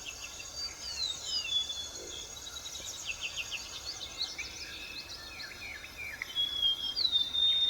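Wild birds chirping, with several short falling whistles and quick runs of chirps, over a steady high buzz of insects.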